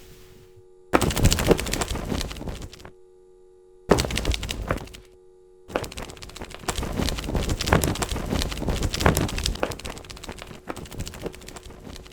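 Frantic fluttering and thrashing of a bird attack, a dense rapid clatter of flaps and knocks. It comes in three bursts that cut in and out abruptly, about a second, four seconds and nearly six seconds in.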